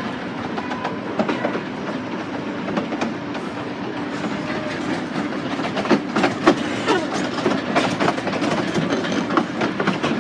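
Miniature railway train running along the track: a steady rumble of wheels on rail with rapid clickety-clack clicks over the rail joints, and a few sharper knocks about six seconds in.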